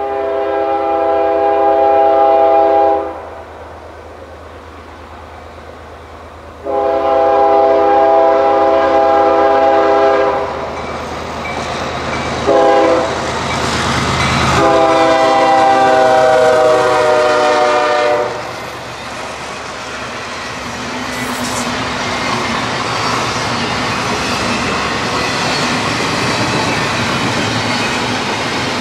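Locomotive's multi-chime air horn sounding the grade-crossing signal: two long blasts, one short, then a long one whose pitch sags slightly as the locomotive passes. It is followed by the steady rumble and wheel clatter of the train going by.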